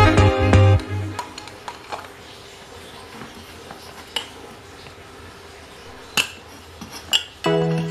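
Background music that stops about a second in, followed by sparse light clicks and clinks of small hard parts being handled, with one sharper click about six seconds in. Music starts again near the end.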